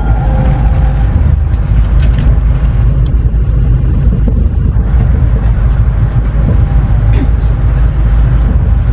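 Steady low rumble of a Shinkansen train running at speed, heard inside the passenger cabin.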